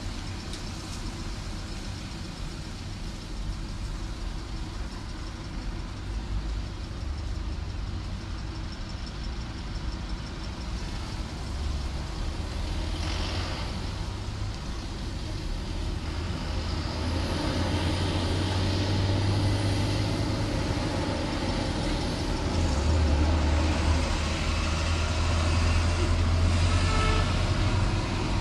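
Heavy vehicle engine running with a low rumble, growing louder in the second half, over road noise.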